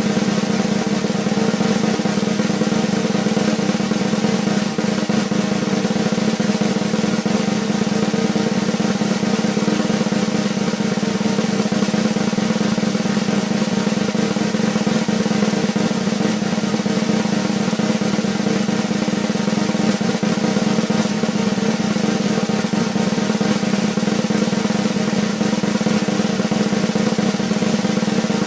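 A continuous snare drum roll that holds at a steady level without a break.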